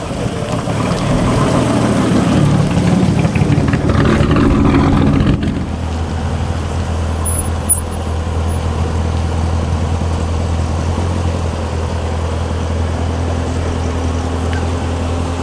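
Car engine sound with shifting pitch, then, after a sudden change about five seconds in, a Chevrolet C7 Corvette's V8 idling steadily with a low, even drone. A short click comes about eight seconds in.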